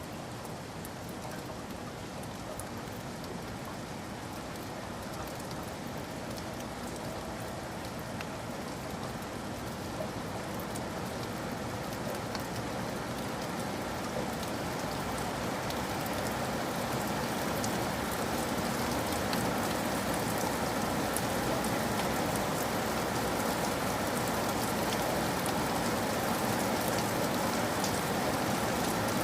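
Steady rain falling and pattering on surfaces, with fine scattered drop ticks, gradually growing heavier and louder.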